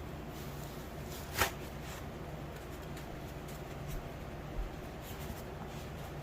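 Cardboard packaging being handled as a boxed LED grow light is unpacked: a short sharp scrape about a second and a half in, then faint taps and rustling, over a steady low hum.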